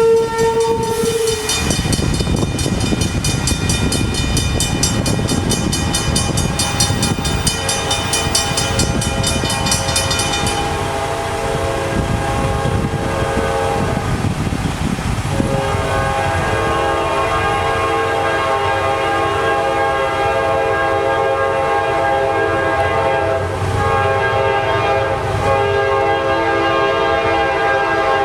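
Freight train led by two GE AC44CW diesel locomotives at a road crossing. A horn chord cuts off about a second in, then comes the heavy rumble of the locomotives with the crossing's mechanical bells ringing in rapid strokes. From about halfway the horn sounds again in long held chords, broken twice near the end.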